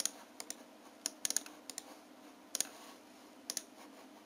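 Computer mouse clicking: a dozen or so irregular sharp clicks, some in quick pairs and clusters. The clicks are picked up through the desk by a phone lying beside the mouse.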